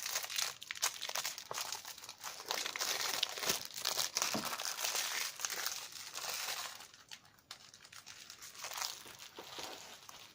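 Plastic wrapping on a Blu-ray box set crinkling and crackling as it is handled and torn open, dense for about the first seven seconds, then thinning to scattered crackles.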